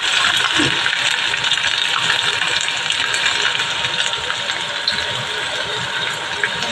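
Chopped garlic and green chillies sizzling in hot oil in a stainless-steel kadai: a steady hiss with faint crackles.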